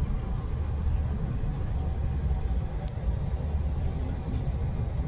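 Steady low rumble of a moving passenger train heard from inside the car, with a brief high tick about three seconds in.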